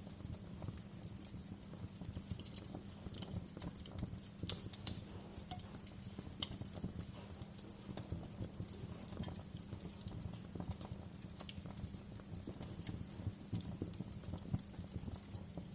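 Wood fire crackling in a fireplace: irregular sharp pops and snaps over a steady low rumble, the loudest pop about five seconds in.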